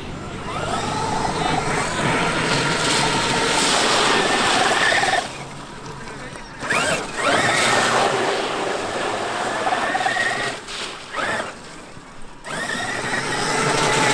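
Traxxas X-Maxx RC monster truck's brushless electric motor whining up in pitch under throttle, then holding. It does this in about four runs, with short let-offs between them.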